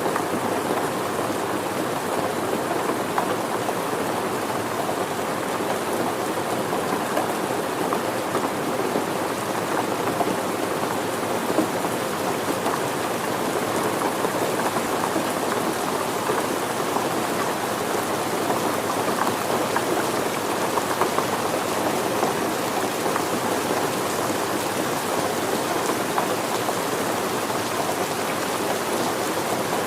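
Steady rain falling on surfaces, a continuous even patter of drops without let-up.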